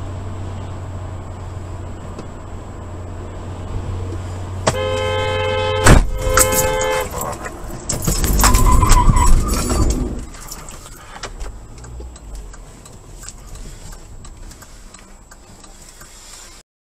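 Car crash heard from a dash cam: steady road and engine hum, then a car horn sounding for about two seconds, broken by a sharp, loud impact about six seconds in. A second loud, noisy stretch of crunching follows about two seconds later, then the noise fades.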